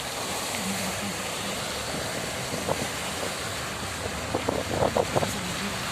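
Heavy rain pouring down in a steady hiss, with a few short sharp sounds about four to five seconds in.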